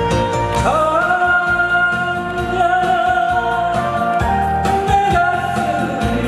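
A singer's voice over a backing track: a little under a second in the voice slides up into a long held note that wavers slightly, then moves into a new phrase near the end.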